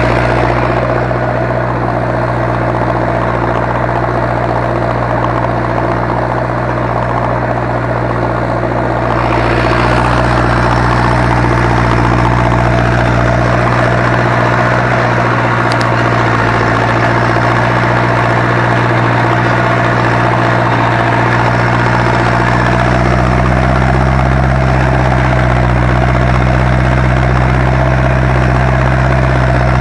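Zetor 7245 tractor's four-cylinder diesel engine running steadily while ploughing, getting louder and brighter about nine seconds in.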